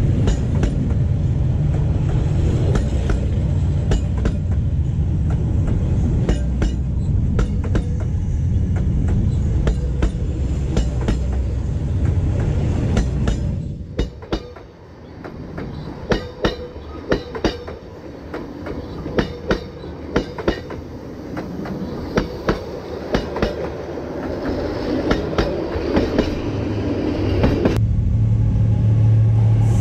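Passenger train coaches rolling past close by, the wheels clicking over rail joints in a clickety-clack over a heavy rumble. About halfway through the rumble drops and the wheel clacks stand out as sharp, separate hits. Near the end a low, steady diesel locomotive hum comes in.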